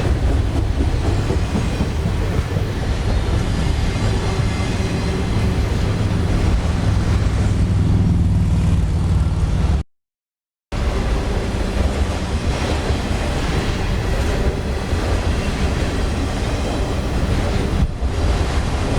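Freight train cars rolling past close by: a steady low rumble of wheels on rail. About halfway through the sound cuts out completely for under a second, then the rumble resumes.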